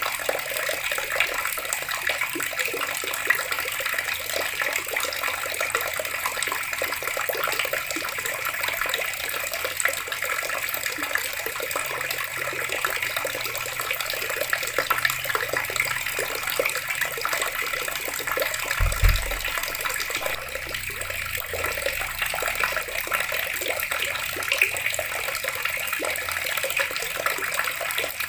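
Water tap running steadily, a continuous stream splashing into a basin. A single low thud comes about two-thirds of the way through.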